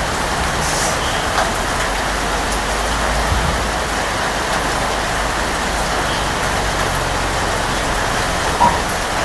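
Steady rain falling, an even hiss with scattered drop ticks and one louder drop near the end, over a low continuous rumble.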